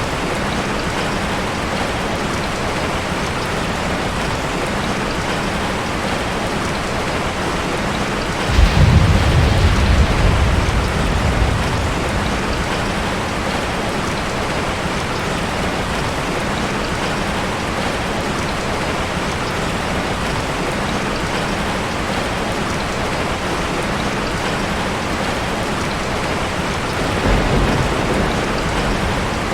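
Steady rain falling, with a sudden low roll of thunder about eight seconds in that fades away over a few seconds, and a softer rumble near the end.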